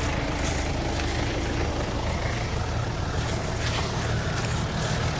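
A vehicle engine running steadily at low, even revs.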